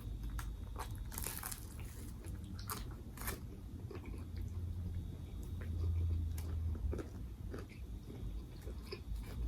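Biting into a crusty banh mi baguette sandwich close to the microphone: loud crunches about a second in and again about three seconds in, then chewing with small crackles.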